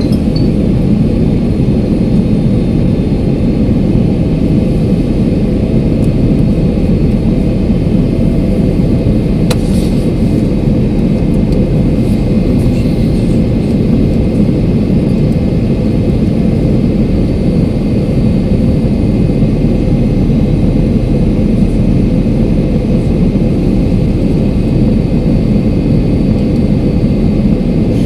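Steady cabin noise of a jet airliner in flight, heard from inside the passenger cabin: an even, dull rush of engines and airflow.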